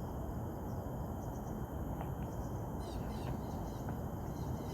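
Forest ambience: a steady high-pitched insect drone with a few faint bird chirps about three seconds in, over a constant low rumbling noise.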